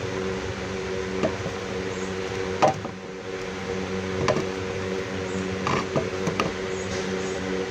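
An electric motor hums steadily while a handful of sharp knocks and creaks sound over it, the loudest about two and a half seconds in.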